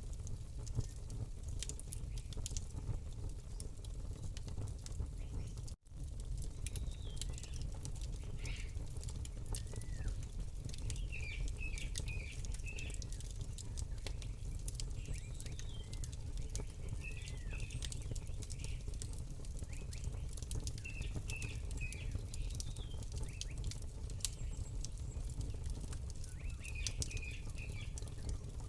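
Campfire crackling and popping over a steady low rumble, with small birds chirping now and then from about seven seconds in. The sound cuts out completely for a moment about six seconds in.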